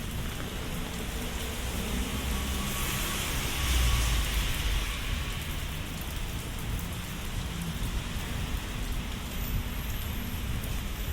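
Steady rain falling on a city street, with a low rumble underneath and a louder swell of hiss about four seconds in.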